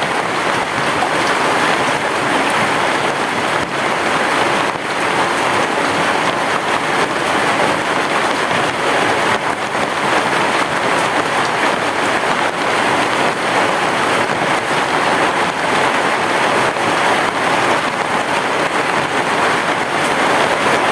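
Heavy rain pouring steadily on a roof, an even hiss of many drops with no thunder.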